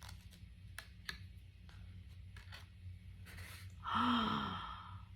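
A few faint clicks from a picture book being handled, then a short breathy sigh with a falling pitch about four seconds in.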